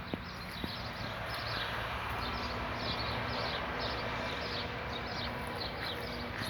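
A small bird chirping over and over, short high notes about two a second, over a steady outdoor rustle.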